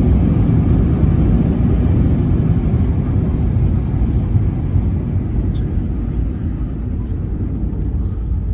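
Jet airliner cabin noise on the ground just after landing: a steady low rumble of engines and wheels that slowly eases off as the aircraft slows.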